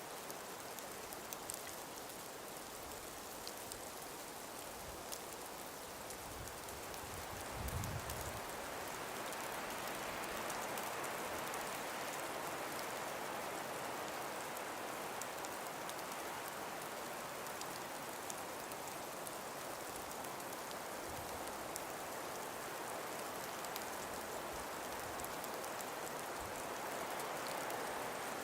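Calm breeze blowing through winter forest trees: a steady rushing hiss that swells about eight seconds in, with a brief low rumble as it picks up.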